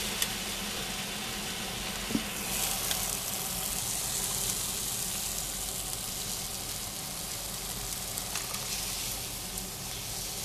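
Egg omelette with chicken and tomato chunks frying in a pan: a steady sizzle that grows louder about two and a half seconds in, with a light knock about two seconds in.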